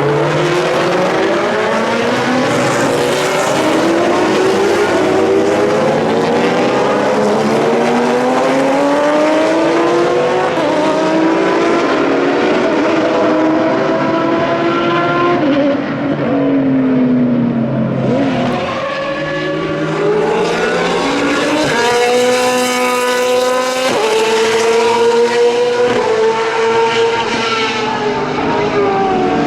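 Several endurance racing cars, LMP prototypes and GT cars, running hard on track, their engines overlapping as they pass. The engine notes rise and fall, and one drops in pitch past the midpoint. In the second half an engine climbs through several quick upshifts.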